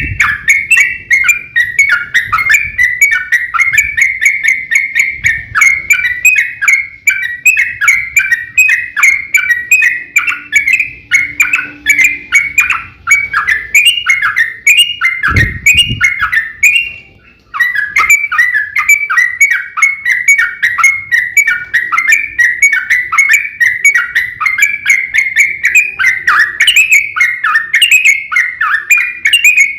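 Yellow-vented bulbul (trucukan) singing a long, unbroken run of rapid chirping phrases, the excited 'fighting' song used to provoke other bulbuls into answering. The song pauses briefly near the middle, and a single low thump comes just before the pause.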